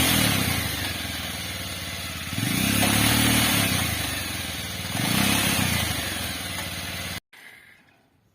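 Motorcycle engine of a homemade mini jeep running and being revved three times, each rev rising and falling back to a fast idle; the sound cuts off abruptly about seven seconds in.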